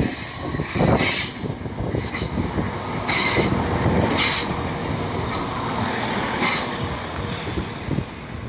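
CrossCountry Class 170 Turbostar diesel multiple unit running close past along the platform, with a steady rumble and high wheel squeals recurring about once a second as it comes round the curve.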